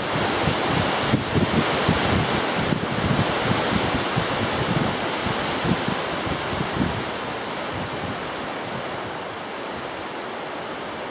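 Strong, gusty wind buffeting the microphone, with irregular low thumps over a steady rushing noise that eases off after about seven seconds.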